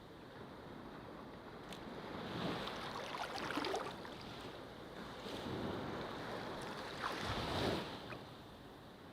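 Ocean waves breaking and washing up a beach. The surf swells and fades about three times, loudest near the end.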